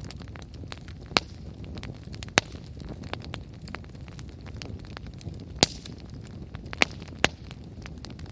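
Wood campfire burning: a steady low rush of flame with constant crackling, and about five louder sharp pops scattered through.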